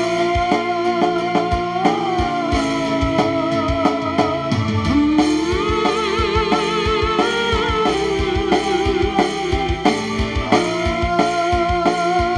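Live band playing an instrumental break: a sustained melodic lead line with vibrato and pitch slides over guitar and a steady drum beat.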